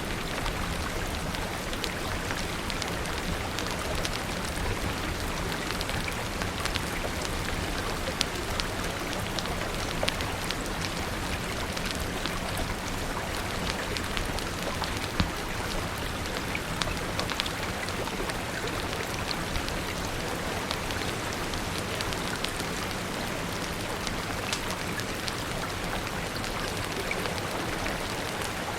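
Steady rain falling, a continuous hiss of drops, with scattered sharp pops and crackles from a wood fire.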